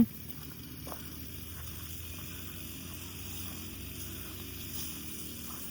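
Motorized grass cutter running steadily, heard as a faint, even low engine hum.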